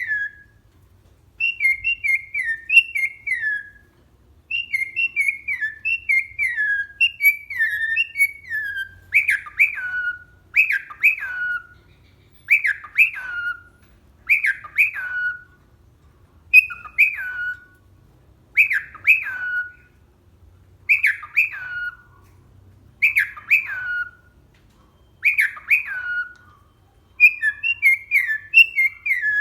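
Cockatiel whistling a learned tune: phrases of clear falling notes repeated over and over with short pauses between them. From about nine seconds in, the phrases become a pair of sharp falling whistles repeated about every two seconds.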